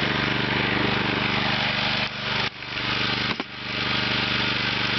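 John Deere riding lawn mower's small engine running steadily as it is driven, with two brief dips in loudness, about two and a half and three and a half seconds in.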